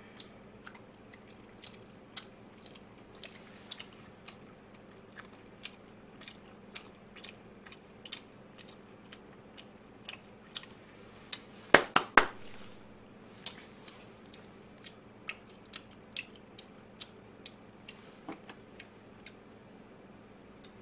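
A person chewing crispy fried food with the mouth close to the microphone: a string of irregular small crisp clicks, with a louder burst of crunches about twelve seconds in.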